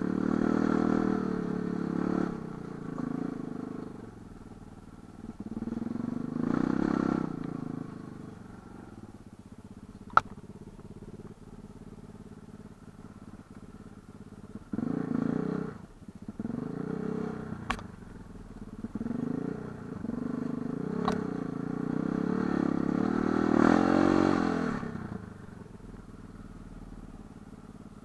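Light enduro motorcycle engine under way, revving up and easing off again and again with quieter stretches of low running between. Three sharp clicks stand out over it.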